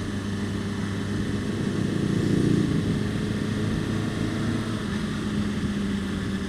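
Honda CBR600RR's inline-four engine running steadily at idle, with a rush of noise that swells and fades about two to three seconds in.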